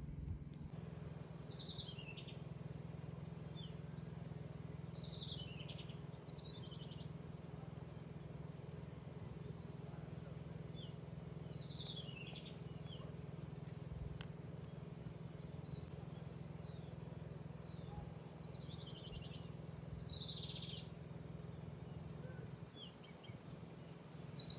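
A bird singing short falling chirp phrases, repeated every two to four seconds, over a steady low hum.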